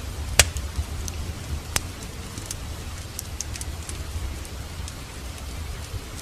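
Rain falling steadily over a crackling fireplace fire, with a low steady rumble, scattered small ticks, and two sharp pops, one about half a second in and one near two seconds in.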